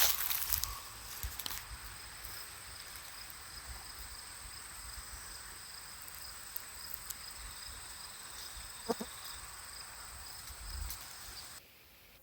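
Insects trilling steadily at two high pitches, one of them finely pulsed, with a rustle of dry leaves at the start and one short lower sound about nine seconds in. The sound cuts off abruptly near the end.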